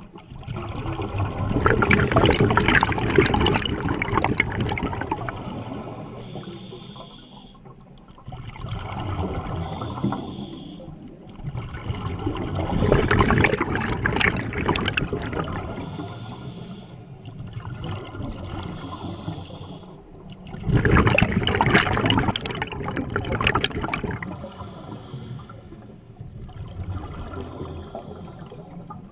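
Scuba diver breathing underwater through a regulator: three long rushes of exhaled bubbles, roughly every nine seconds, with quieter stretches between.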